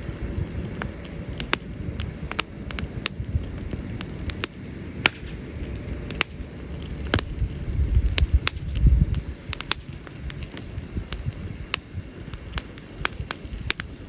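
Wood campfire crackling: irregular sharp pops and snaps over a low rumble, which swells about eight to nine seconds in.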